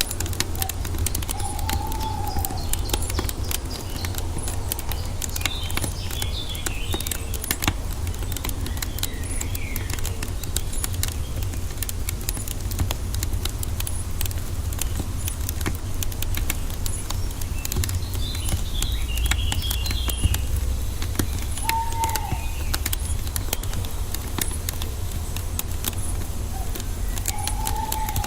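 Wood fire crackling steadily over a low rumble, with forest birds calling: a short arched whistle three times and bursts of higher chirping twice.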